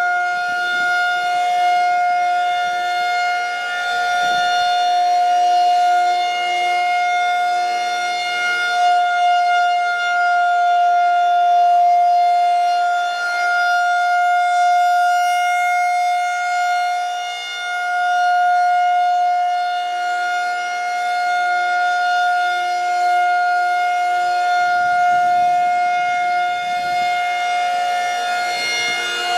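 Federal Signal 2001-130 DC rotating outdoor warning siren sounding the steady Alert signal: one held tone with strong overtones that swells and fades gently as the siren turns.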